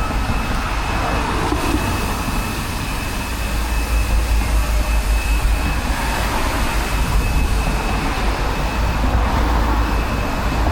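Steady road traffic noise, with a deep rumble underneath and no breaks.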